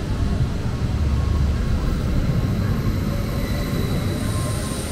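Train moving through a station with a steady low rumble, joined by a faint high-pitched whine about four seconds in.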